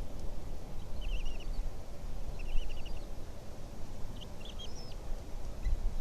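Bald eagle calls: three short runs of quick, high chittering notes, over a steady low background rumble.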